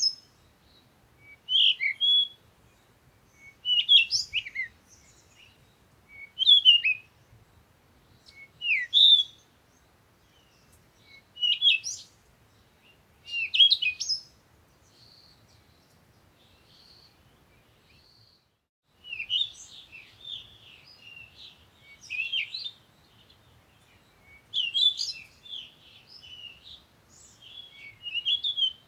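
Songbirds singing: short chirped, warbled phrases repeated about every two seconds, then denser overlapping chirping from several birds after a brief gap about two-thirds of the way through.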